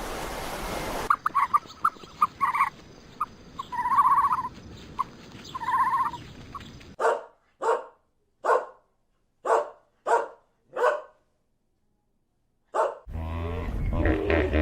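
A dog yipping in short, high yelps, then barking six times in separate barks about a second apart. A different low, droning animal sound begins near the end.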